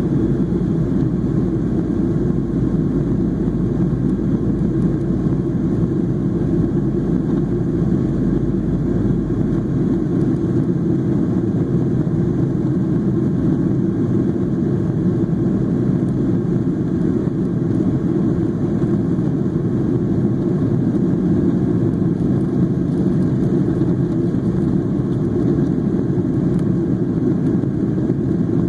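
Steady engine and airflow rumble of a Boeing 737-800 airliner with CFM56 turbofans in flight. The deepest part of the rumble drops away about ten seconds in.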